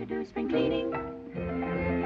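Orchestral cartoon score with strings: a few short clipped notes, then held notes.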